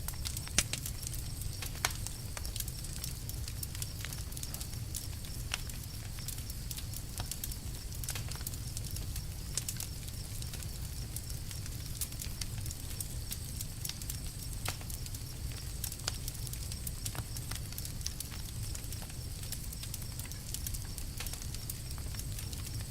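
Campfire crackling: scattered sharp snaps and pops of burning wood over a steady low rumble of the fire, with a couple of louder pops in the first two seconds.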